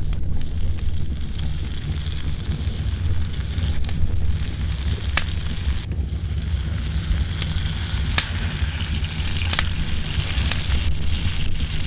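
Food sizzling in a pan over a campfire, the hiss growing stronger about halfway through, with a few sharp pops. Underneath is a steady low rumble of wind on the microphone.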